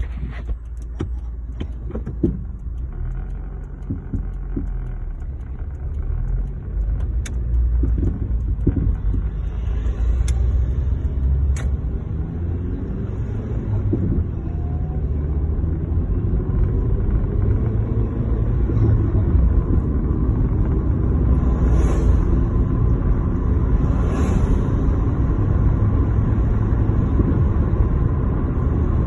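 Chevrolet Lanos 1.5 driving with a steady low rumble. Sharp, irregular knocks come from the front of the car, mostly in the first dozen seconds; this is the periodic front-end knock the owner is trying to trace. Partway through, the engine note rises as the car speeds up.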